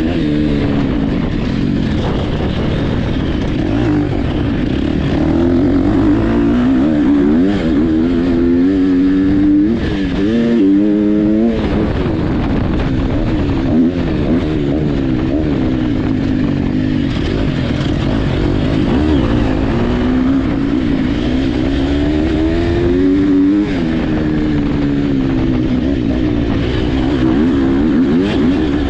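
Motocross dirt bike engines running hard, their pitch climbing and falling again and again as the throttle is opened and closed.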